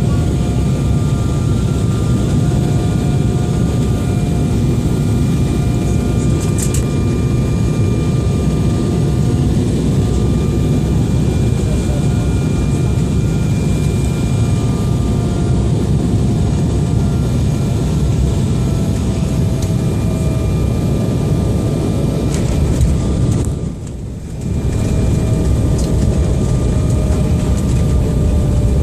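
Airliner's jet engines and airflow running as a loud, steady drone, with faint whining tones that slowly drift lower. The level drops briefly for about a second near the end.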